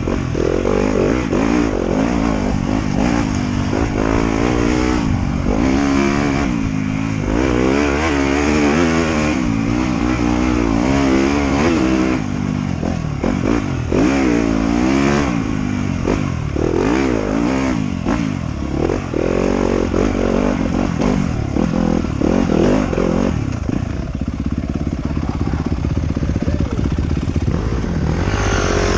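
Trail motorcycle engine being ridden hard, its pitch rising and falling over and over as the throttle is opened and closed, then holding steadier and lower for the last few seconds.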